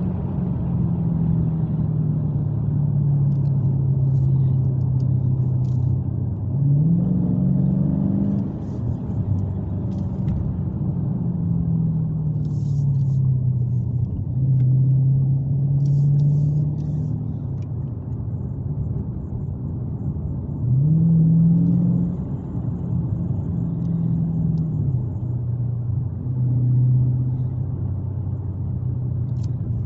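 Dodge Challenger Scat Pack's 392 HEMI V8 running while driving, with a deep steady rumble. Its pitch climbs quickly a few times as it accelerates, then sinks slowly as it eases off.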